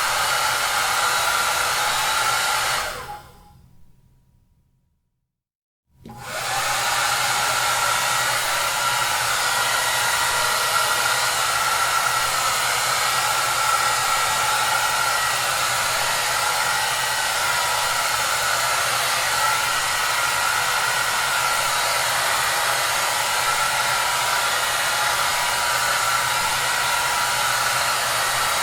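Hair dryer running with a steady rush of air and a faint whine. About three seconds in it dies away to silence, then comes back at full strength about six seconds in.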